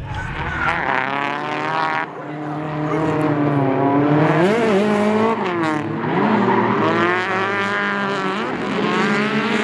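Drift car engine revving hard, its pitch rising and falling repeatedly as the throttle is worked.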